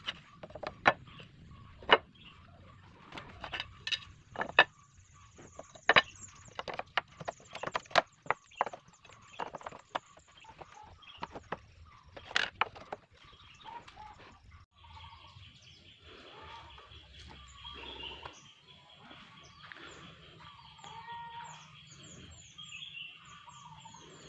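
Irregular sharp knocks and taps, some loud, for about the first half. After that, birds chirping over a steady high-pitched tone.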